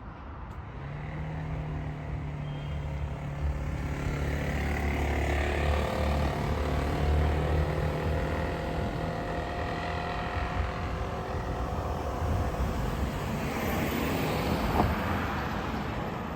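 A heavy motor vehicle's engine running close by, a steady low drone with a higher whine on top. It builds over the first few seconds and fades after about ten seconds, giving way to a swell of passing traffic noise with a short sharp tick near the end.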